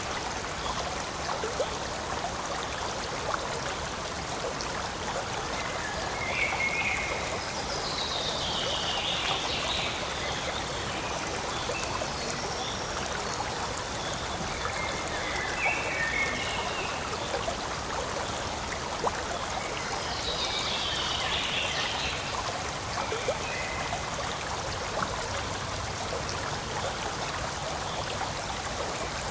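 Forest stream flowing and trickling steadily. Short high calls sound over it several times, two of them sliding down in pitch.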